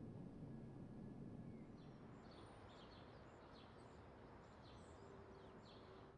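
Faint birds chirping, a run of short quick chirps starting about two seconds in, over a low steady hiss.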